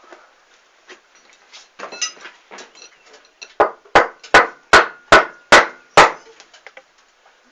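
Hammer tapping a wheel onto a ride-on mower's transaxle shaft: a few faint clicks, then seven sharp ringing strikes in quick succession, about two or three a second, starting about three and a half seconds in.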